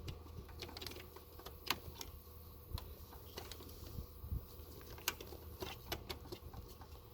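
Scattered light clicks and taps of hands handling parts and connectors in an engine bay, a few a second and irregular, over a faint steady hum.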